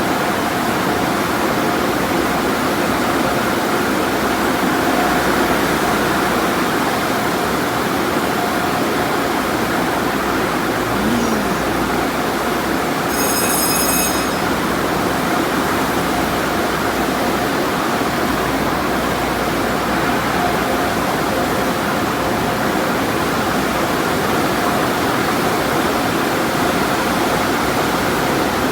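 Automatic car wash running with a steady, loud rushing noise of spray and machinery. A short high-pitched tone sounds about thirteen seconds in.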